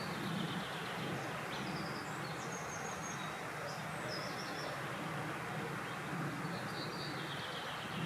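Small birds singing in short, high chirping phrases a few times, over a steady rush of wind.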